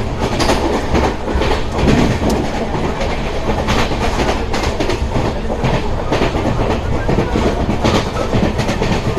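Passenger coach of a moving express train heard from its open doorway: a steady rumble and rush of air, with the wheels clacking irregularly over rail joints.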